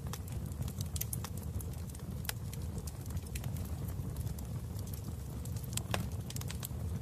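Wood fire crackling in a fireplace: a steady low rumble of flames with irregular sharp pops and snaps, one of the strongest about six seconds in.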